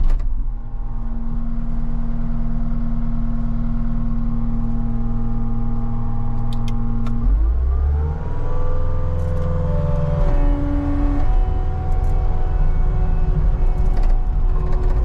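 CAT 279D skid steer's diesel engine running steadily under load. About seven seconds in, it revs up smoothly and holds at higher revs, with brief higher whining tones a few seconds later.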